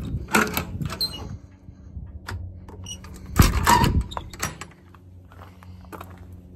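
A metal compartment door being worked, with a run of clattering knocks early on and one loud bang about three and a half seconds in, over a steady low hum.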